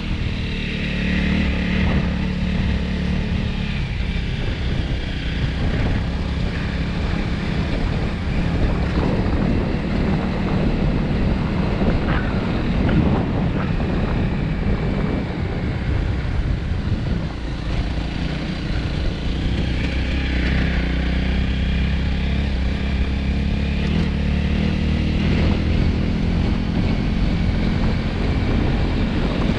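Dirt bike engine running steadily under way on a dirt track, its pitch shifting a little with the throttle, with wind buffeting the microphone.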